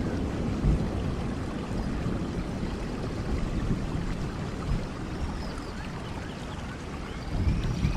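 Steady rush of a waterfall mixed with falling rain. A low rumble swells briefly near the end.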